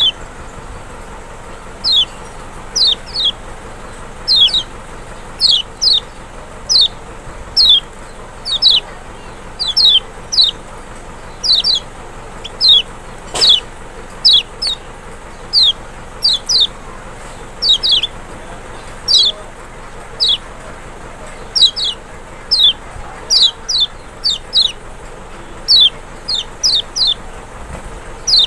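Kecial, the Lombok white-eye (Zosterops chloris maxi), calling: a steady run of short, high notes that each slide downward, often in quick pairs, about one to two a second.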